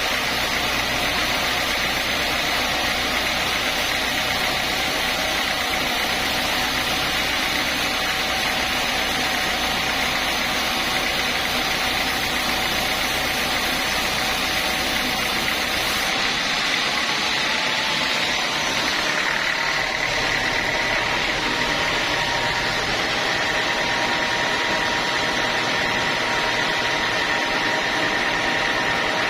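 Sawmill machinery running steadily. About sixteen seconds in, the deep rumble drops away, and a few seconds later a steady high whine comes up.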